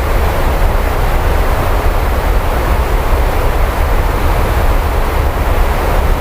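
Steady heavy rainfall, an even hiss with a deep low rumble underneath and no sudden thunderclap.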